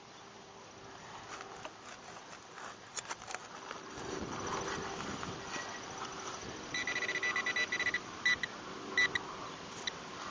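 Scraping and digging in dry dirt at a dug target hole. About seven seconds in, a metal detector gives a rapid run of short, high beeps, then two more single beeps: it is signalling a metal target still in the hole.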